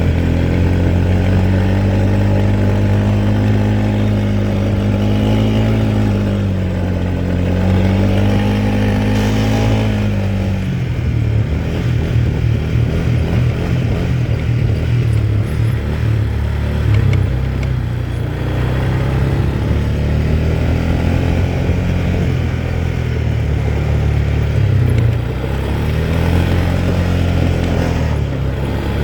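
Quad bike engine running while riding, its pitch rising and falling with the throttle. About ten seconds in the note drops to a lower, uneven throb, and it climbs again near the end.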